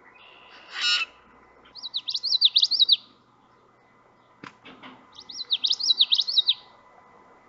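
Songbird singing: a short buzzy note, then two quick phrases of fast rising-and-falling whistled notes, a few seconds apart.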